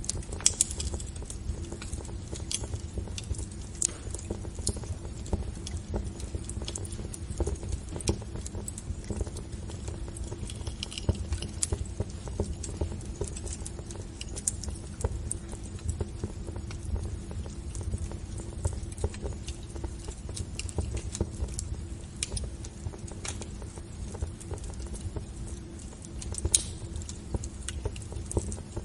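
Wood fire burning in a fireplace: irregular crackles and sharp pops over a low steady rumble.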